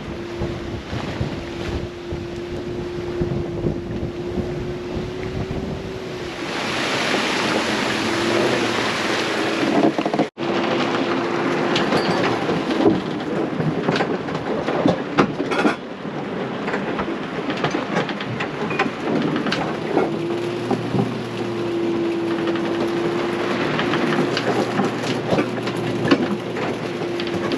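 Heavy squall rain and wind on a sailboat, a dense steady hiss that grows heavier for a few seconds about a quarter of the way in, with a steady hum running underneath.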